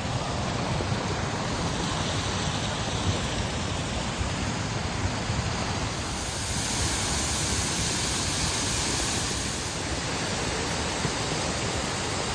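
Shiraito Falls, many thin streams of water spilling down a wide rock face, making a steady rushing hiss; the hiss turns brighter for a few seconds around the middle.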